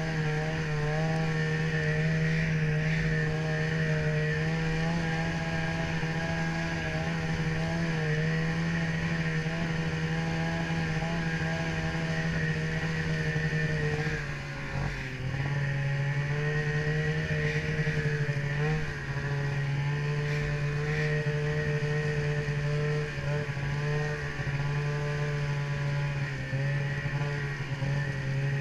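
Snowmobile engine running at a steady cruise. About halfway through the revs dip briefly, then settle slightly lower.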